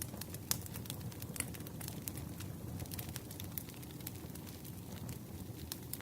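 Wood campfire crackling: a steady low rumble of burning with irregular sharp pops and snaps, the loudest pop about half a second in.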